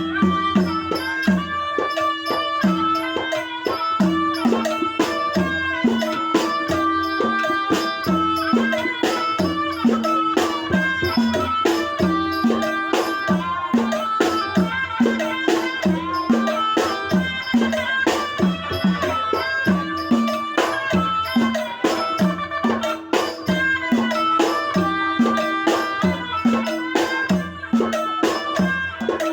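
Traditional southern Thai Nora (Manora) ensemble music: low drum strokes about twice a second and sharp percussion clicks under a steady held tone and a wavering melody line.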